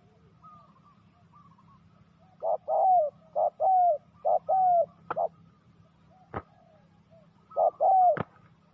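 Spotted dove cooing: three phrases of short, low coos, each ending in a falling note, in the middle, then another phrase near the end. Several sharp clicks fall between the phrases.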